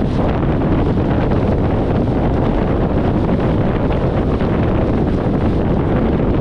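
Steady wind buffeting an externally mounted microphone on a 1994 VW Gol driving at highway speed, with road and engine rumble underneath.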